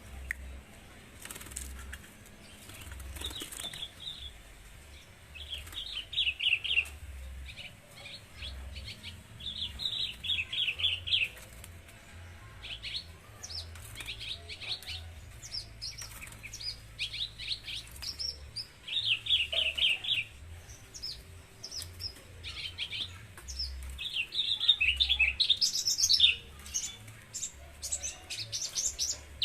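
Javan bush lark (branjangan) singing in short bursts of rapid trilled notes every second or two, the phrases coming thicker and louder near the end.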